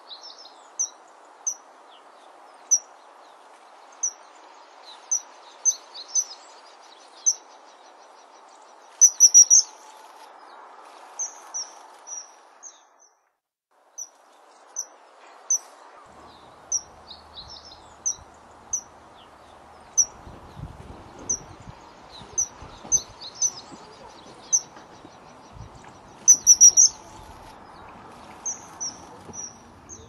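Wild birds calling: short, high, thin notes about once a second, with a brief burst of rapid chirping twice, over a steady background hiss. The sound drops out for a moment near the middle.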